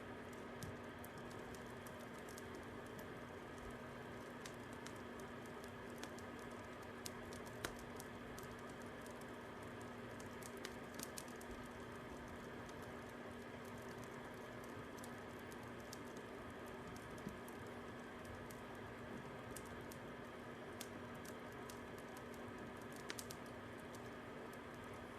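Fire crackling: a steady soft hiss with sparse, irregular sharp pops and snaps.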